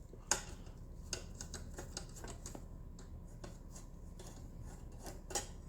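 Scattered light clicks and taps of small parts being handled, over a faint steady low hum, with a slightly louder click about five seconds in.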